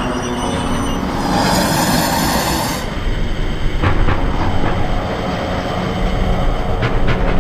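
Passenger train rolling past, its wheels clicking over the rail joints, with a high ringing squeal for about two seconds, starting about a second in.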